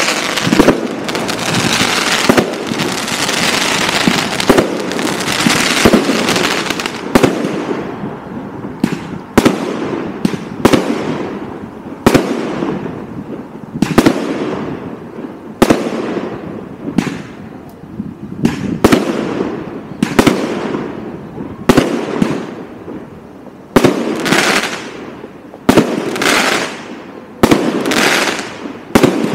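Aerial fireworks from a multi-shot battery of 25–50 mm shells. At first a dense, continuous crackling; after about seven seconds, sharp bursts come every second or so, each followed by a fading crackle.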